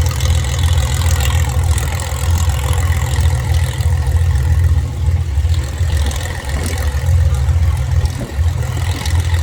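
Wind buffeting the microphone in a heavy, fluttering rumble, with the faint steady drone of an aircraft engine.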